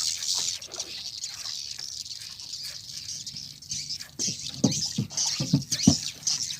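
A flock of swiftlets twittering overhead, a dense, unbroken chatter of many high chirps. A few low thumps come in between about four and six seconds in.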